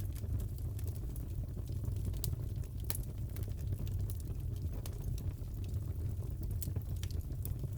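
Wood fire burning in a fireplace: a steady low rumble with irregular sharp crackles and pops, a louder pop about three seconds in.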